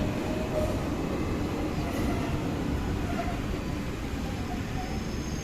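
A passenger train running along the track: a steady low rumble with no distinct knocks.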